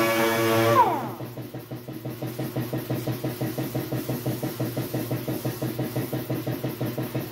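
Dual-action sander whining, then spinning down and stopping about a second in. After it, a motor keeps running with a steady chugging beat, about four pulses a second.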